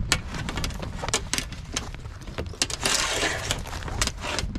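Cooking gear being handled and set out: a string of light clicks and knocks, with a longer rustle about three seconds in, over a low rumble.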